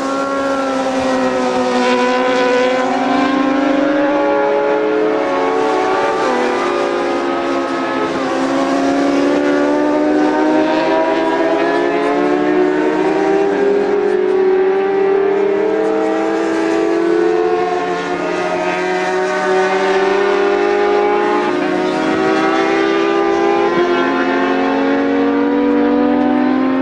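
Several racing motorcycle engines running hard at high revs, their notes overlapping, each climbing and then dropping at the gear changes.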